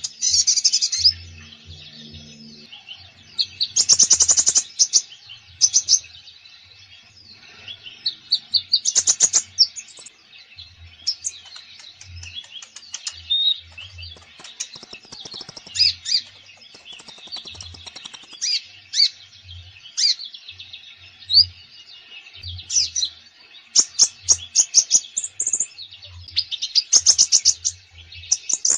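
Common iora (konin) singing a long, varied song of whistled notes and fast chattering trills, with phrases repeated every few seconds.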